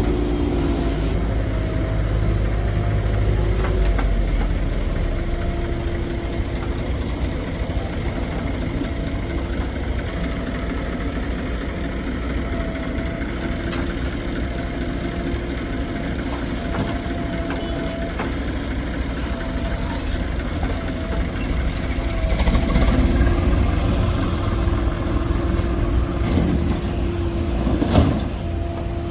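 Heavy diesel engine running steadily with a low rumble and a held hum, broken by occasional clanks. It grows louder for a couple of seconds about three-quarters of the way through, and a sharp knock sounds near the end.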